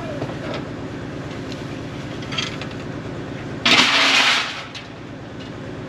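A vehicle engine running steadily, with a loud burst of hissing noise for about a second in the middle.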